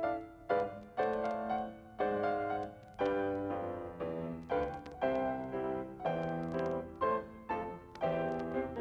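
Piano music at a steady, even pulse of about two struck chords a second, each note decaying before the next.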